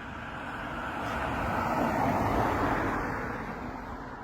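A car passing by: tyre and engine noise swells, peaks about two seconds in, then fades.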